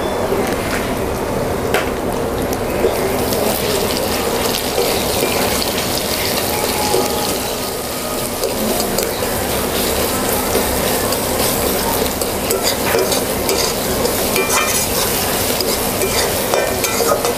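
Garlic and onion sizzling in hot oil in a metal kadai, stirred with a metal spatula that clicks and scrapes against the pan.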